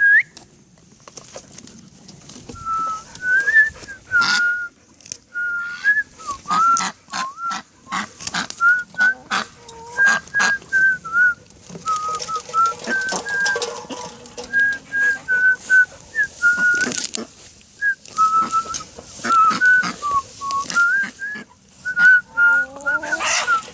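A person whistling a wandering tune, with many short clicks and knocks of handling throughout.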